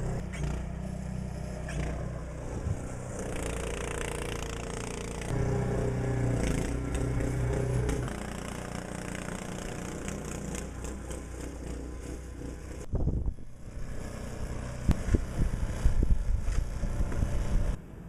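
An engine running steadily, with some scraping, then a louder stretch of irregular bumps and rustling that cuts off suddenly just before the end.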